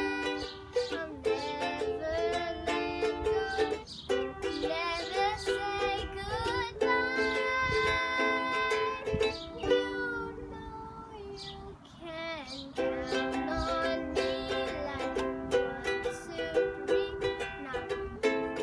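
A ukulele is strummed while a girl sings, with birds chirping along high above the music. The playing thins out for a moment about ten seconds in, then the strumming picks up again.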